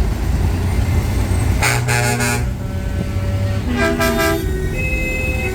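Trucks driving past with engines running and sounding their horns: a low engine rumble, then two short chord-like horn blasts about two seconds apart, and a single held horn tone near the end.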